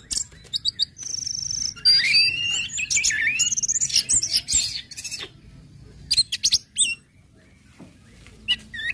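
Orange-headed thrush calling and singing: sharp chip calls, a short buzzy trill, then whistled phrases that glide up and down. A burst of chips comes about six seconds in, and more calls start again at the very end after a lull of about two seconds.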